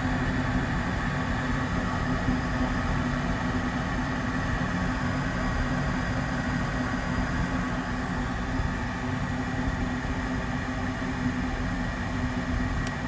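York gas furnace running with its burners lit: the steady hum of the newly fitted draft inducer motor over the rush of the gas flames.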